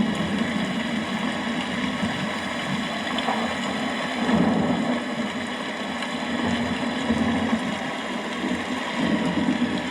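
Steady rain falling, an even wash of noise, with a low rumble underneath that swells and fades.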